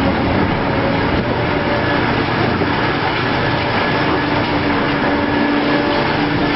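Heavy diesel machinery running steadily: a loud, even engine noise with a faint steady hum in it.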